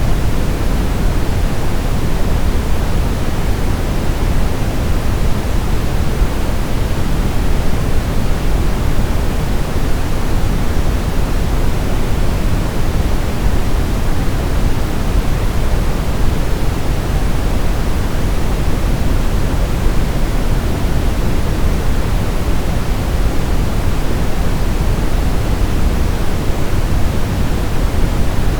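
Steady brown noise: a continuous, unchanging rushing hiss weighted heavily toward the bass.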